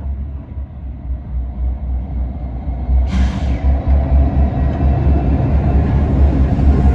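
Two diesel freight locomotives rumbling past, getting louder over the second half. About three seconds in there is a brief sharp hiss that fades within half a second.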